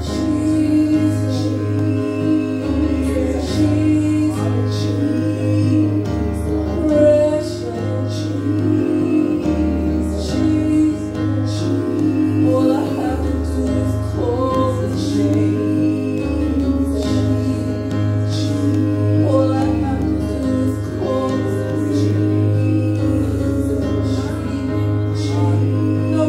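Church praise team singing a gospel song, led by female voices, over a band with a bass line stepping between notes and regular cymbal strikes.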